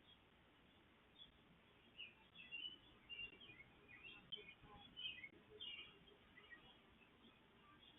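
Faint wild birds chirping: a busy run of short, high chirps for several seconds over a low, steady outdoor background.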